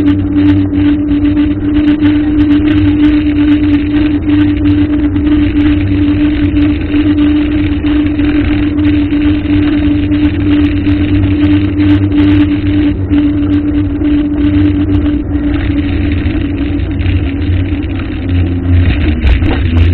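An engine running steadily with a constant hum, easing slightly and then rising again near the end.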